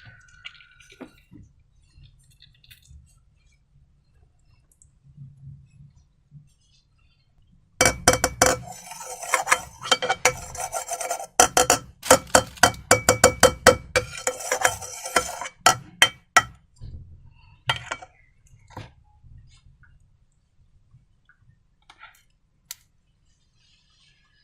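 A utensil stirring and clinking fast against a hard bowl, a dense run of clinks and scrapes that starts about 8 s in and lasts about 8 s, followed by a few scattered single taps.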